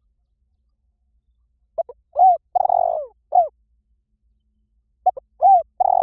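Spotted dove cooing, as played for a lure call. Two short notes, a rising-then-falling coo, a long held coo and a closing coo make one phrase of under two seconds, which begins about two seconds in and starts again about five seconds in.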